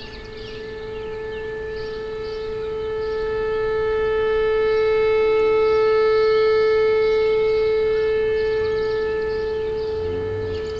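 NOAA Weather Radio alarm tone on its weekly test, the signal that switches on specially built weather alert receivers. One long, steady tone with a buzzy edge of overtones, swelling to its loudest about midway and easing off toward the end.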